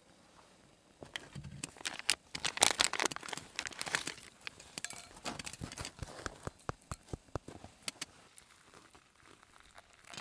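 Crinkling and rustling of something being handled, such as packaging or a bag, densest and loudest in the first half, followed by scattered light clicks and taps.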